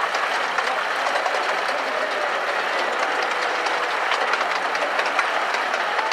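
A 15-inch gauge miniature railway train running along the track: a steady rattle of wheels on rail, with many small clicks scattered through it.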